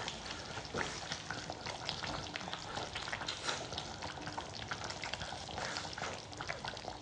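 Close-miked eating: wet chewing and lip smacking, a dense, irregular run of small clicks and crackles.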